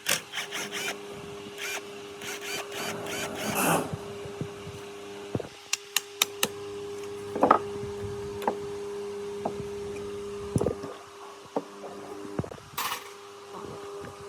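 Workshop handling noise: scattered clicks, taps and knocks of tools and metal parts, densest in the first few seconds, over a steady machine hum.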